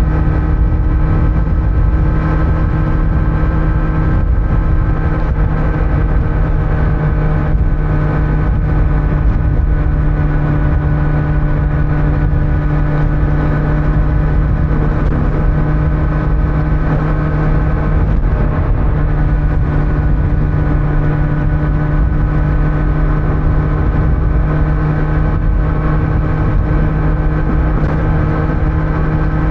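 Kawasaki Z900's inline-four engine running through its stock exhaust at a steady cruise, its note holding one pitch, with wind and road noise underneath.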